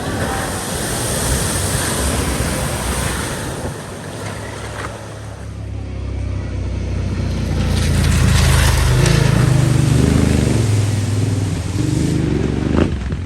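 A car driving through deep floodwater: water rushing and splashing, with the engine's low note building to its loudest in the second half. A sharp knock near the end.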